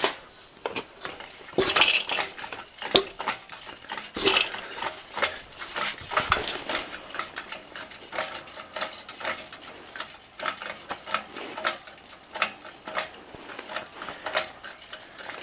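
Hand-spun Hunter ceiling fan resting on the ground, its metal pull chain clicking and clinking irregularly against the turning motor housing and blades.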